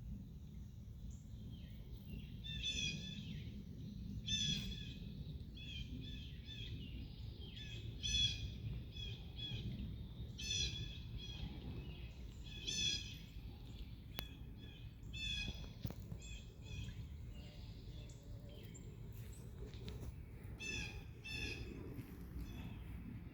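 A bird calling over and over, each call a short burst of quick notes, repeated about every two seconds, with fainter calls in between. A steady low rumble runs underneath.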